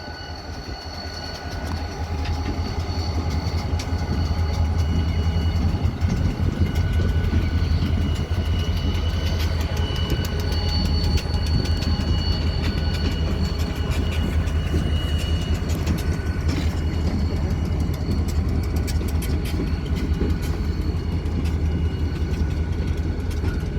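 CSX diesel locomotives moving on the track: a steady low engine drone with rapid clicking of wheels on the rails and a thin steady high-pitched wheel squeal. It grows louder over the first few seconds.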